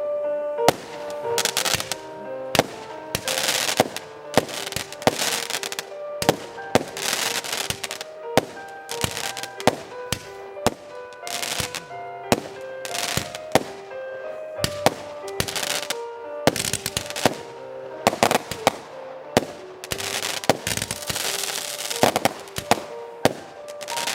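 Fireworks display going off: a dense string of sharp bangs, some in quick runs, with crackling hiss after many of them, over music with held notes.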